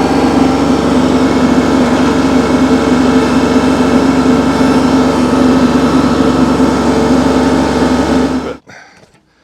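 Kubota tractor's diesel engine running steadily, working a grapple to lift a log onto the sawmill deck. The sound cuts off abruptly near the end.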